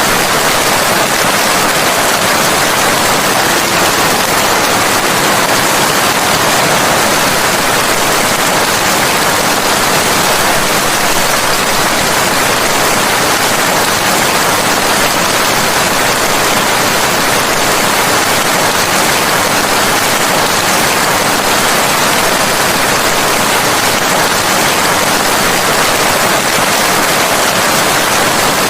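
Steady, heavy rain falling, an even hiss of rain with no breaks.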